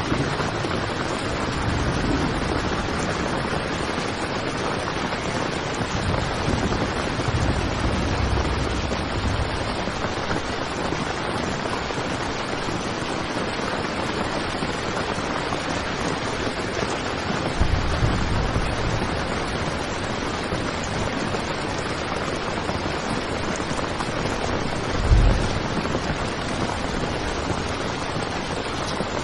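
Heavy rain beating steadily on tent fabric. Low rumbles come and go under it, and the loudest moment is a short low thump about 25 seconds in.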